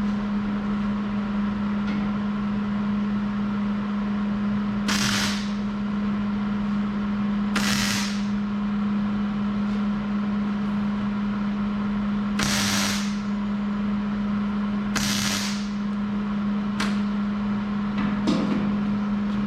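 Welder laying four short tack welds, each a half-second-to-a-second crackling hiss of the arc, a few seconds apart, over a steady low hum.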